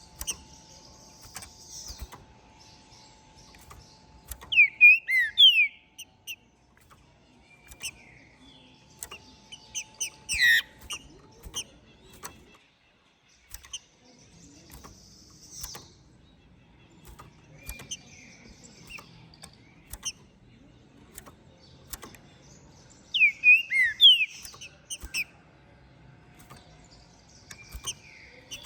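Green-winged saltator (trinca-ferro) singing: two loud phrases of short, rapid gliding whistles, one about five seconds in and one near 23 seconds, with a sharp descending call about ten seconds in and softer chips and clicks between.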